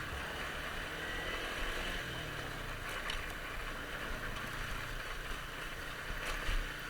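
Motorcycle running along the road: a steady engine hum under road and wind noise, with two brief knocks about three and six seconds in.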